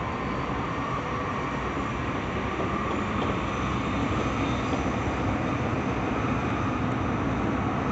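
Running noise of a Tsukuba Express TX-2000 series electric train heard from inside the passenger car: a steady rumble of wheels on rail with a faint steady whine, growing a little louder about three seconds in.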